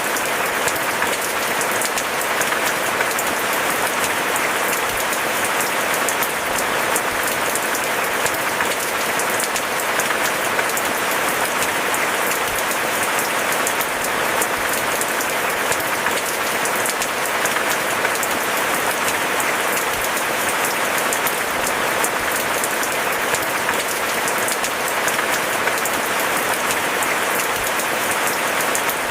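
Steady rain falling, a dense, even patter of drops with no break or change.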